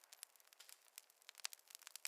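Wood fire crackling, faint: irregular sharp pops and snaps over a soft hiss.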